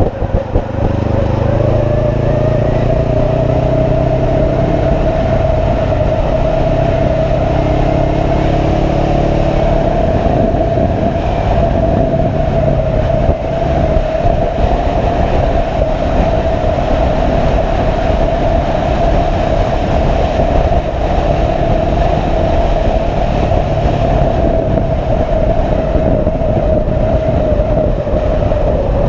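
Motorcycle being ridden at a steady speed: engine running under wind noise rushing over the microphone, with a steady whine. The engine note rises in the first few seconds as it picks up speed.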